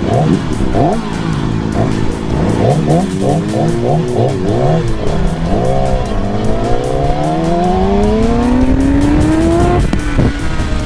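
Motorcycle engine accelerating under load, its pitch rising and dropping several times as it shifts, then one long steady climb in pitch that falls away at a gear change near the end.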